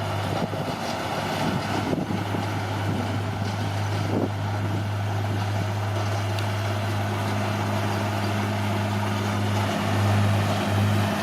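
Heavy earthmoving machine's diesel engine running steadily, with a few light knocks in the first few seconds. Its level swells briefly about ten seconds in.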